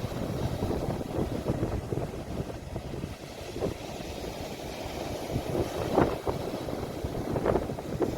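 Ocean waves washing onto the shore with wind buffeting the phone's microphone: a rough, uneven rumble with a couple of louder surges in the second half.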